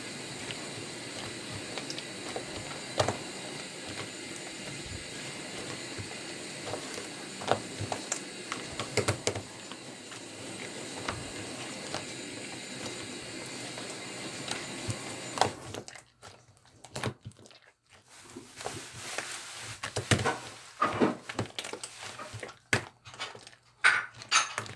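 Slime being squished and worked by hand, giving scattered sharp clicks and pops over a steady hiss. About sixteen seconds in, the hiss drops away and the clicks and crackles come thicker.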